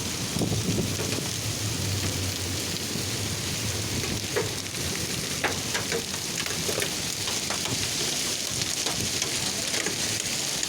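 Hailstorm: a steady hiss of falling rain and hail, with many sharp, irregular ticks of hailstones striking.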